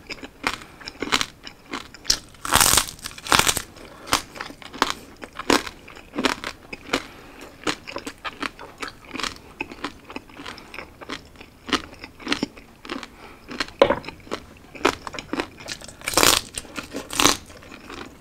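Close-miked chewing and crunching of crispy roasted pork belly with crackling skin: a steady run of wet, crackly chews, with loud crunchy bites about three seconds in and again near the end.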